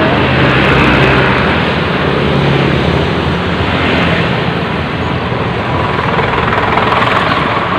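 Highway traffic and a steady rush of wind heard from a moving bicycle, with a low engine hum from a passing vehicle in the first half.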